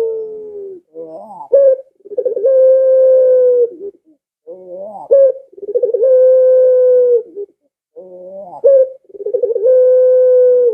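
Puter dove (domestic ringneck dove) cooing over and over, about three coos. Each coo is a short stuttering lead-in followed by a long, loud held note that drops slightly at its end.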